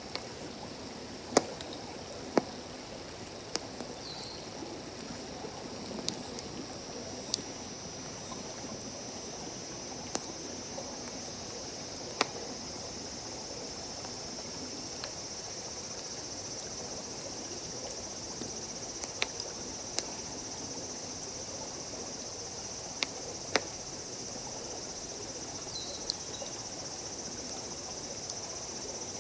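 Wood campfire crackling with scattered sharp pops, over a steady high insect trill that grows louder after the first few seconds and the low hush of running water.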